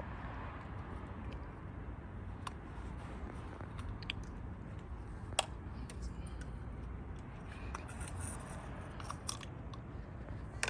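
Scattered small clicks and taps of parts being handled, as the oil filter housing's old O-rings are worked off, over a low steady rumble; the sharpest click comes about five seconds in.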